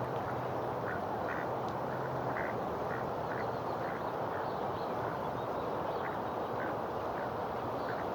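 Short animal calls, repeated irregularly, over a steady rushing background noise; a low hum stops about two and a half seconds in.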